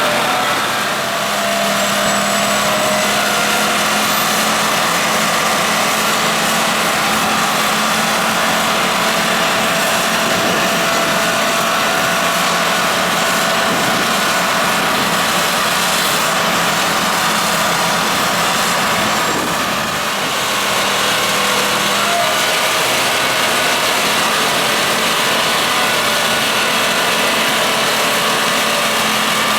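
Vohl snow blower running steadily under load, its engine drone mixed with a loud, even rushing hiss as snow is thrown into a truck. The level dips briefly about a second in and again about two-thirds of the way through.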